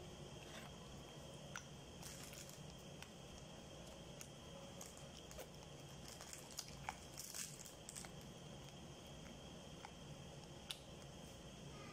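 Faint chewing and mouth sounds of someone eating a dumpling, with a few scattered soft clicks over a steady low hum.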